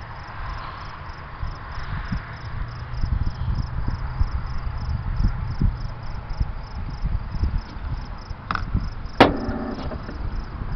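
Storm noise: gusting wind buffeting the microphone with a steady hiss of rain, and one sharp knock about nine seconds in.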